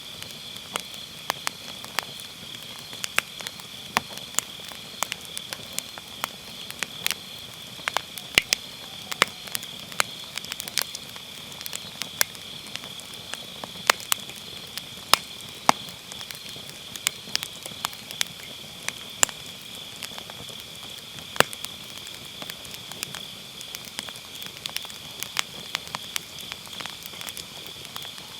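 Firewood burning in a campfire, crackling with frequent sharp, irregular pops and snaps, over a steady high chirring of autumn grass insects.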